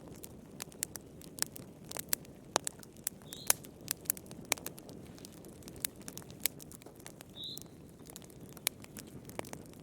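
Wood fire crackling in a fireplace: irregular sharp pops and snaps, several a second, over a low steady rush of burning. Twice a faint, short, high chirp sounds from the fire.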